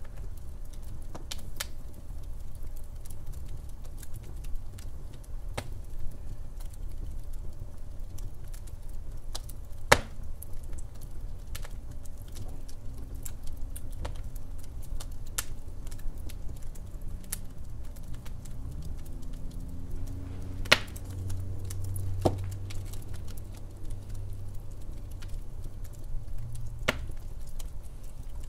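Wood fire crackling in a fireplace: a steady low rumble with scattered sharp pops and ticks, the loudest about ten seconds in and again about twenty-one seconds in.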